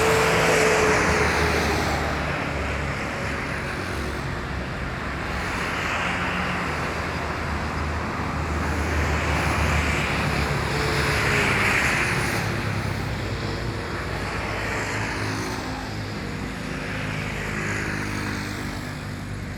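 River water rushing steadily, swelling and easing every few seconds.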